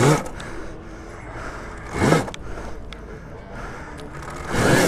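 Alta Redshift electric dirt bike being ridden over rough trail: a faint electric-motor whine rising and falling under a steady rush of noise, with three louder surges near the start, about two seconds in and near the end.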